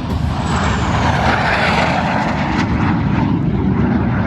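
Aerobatic airplane's engine passing overhead at an airshow, the noise swelling about a second in, with a pitch that slides downward as it goes by.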